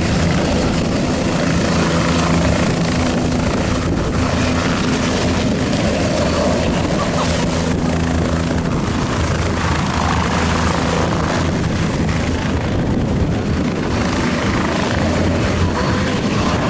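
Helicopter running close by: a steady engine and rotor noise with a low hum.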